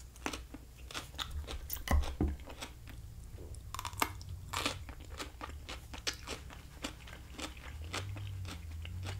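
A person chewing and crunching crisp, half-cooked roasted vegetables (carrot and green beans) close to a microphone, a steady run of small sharp crunches.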